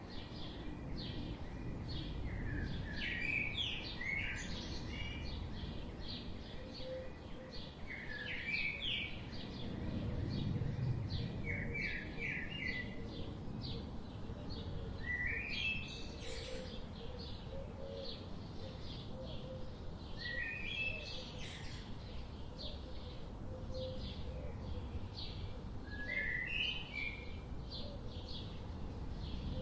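Several wild birds singing outdoors. One bird repeats a short phrase of quick rising notes every few seconds, over steady rapid high-pitched chirping from others and a low background rumble.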